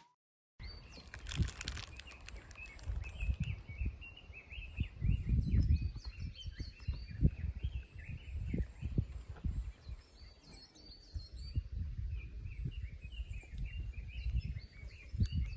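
Wild birds chirping and calling over and over, with irregular low rumbles of wind buffeting the microphone.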